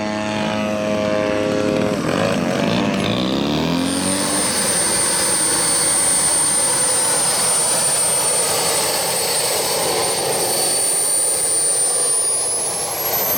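Radio-controlled model aircraft flying past. In the first few seconds an engine note falls in pitch, then a steady high jet whine over a rushing noise takes over, its pitch rising near the end.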